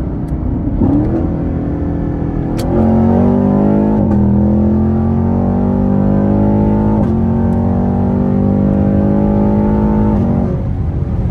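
Chevrolet Camaro SS's 6.2-litre V8 on its stock exhaust, heard from inside the cabin under hard acceleration. It cruises at first, then about two and a half seconds in the revs climb at full throttle, with two upshifts that each drop the pitch before it climbs again, and it lifts off near the end.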